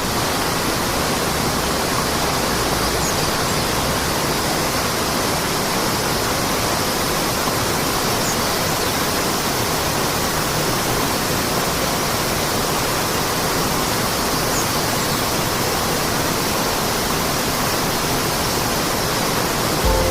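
Water rushing steadily with an even, unbroken hiss across all pitches, like a waterfall. A faint, short, high chirp comes through about three times.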